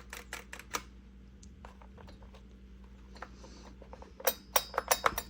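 A scattered series of light clicks and taps, with a quick cluster of louder clicks about four seconds in, over a faint steady hum.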